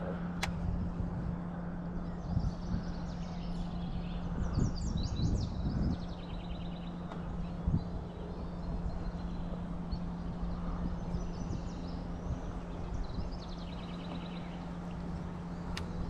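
Small birds singing short, repeated chirping trills over a steady low hum and outdoor background noise, with a sharp click near the end.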